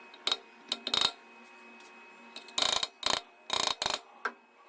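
Microwave oven being set: a few sharp clicks in the first second, then four short, loud bursts of ratcheting clicks.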